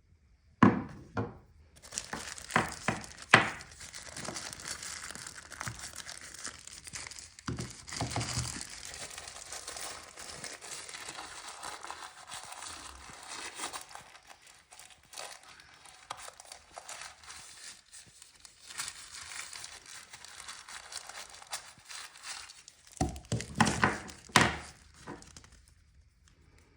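Packaging being handled during unboxing: a long stretch of crinkling and rustling, with several sharp knocks near the start, around a third of the way in, and again near the end.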